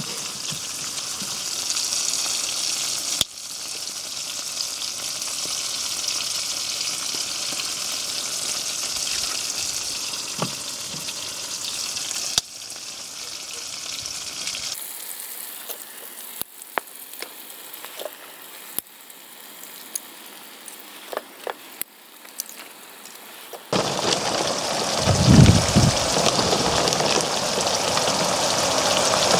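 Lard and tomatoes sizzling in a frying pan, a steady frying hiss. In a quieter stretch near the middle it is broken by scattered sharp clicks and taps, and the sizzle comes back louder near the end.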